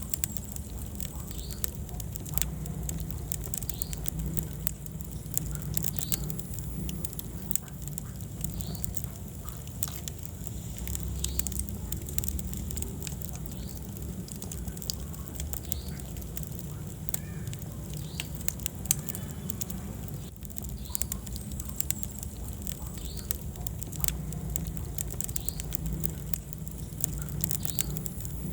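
Wood fire in a fireplace crackling, with frequent sharp irregular pops over a steady low rumble of the burning logs.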